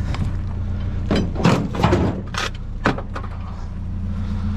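Five knocks and clatters between about one and three seconds in, from items being shifted in a dumpster. Under them runs a steady low hum like an idling vehicle engine.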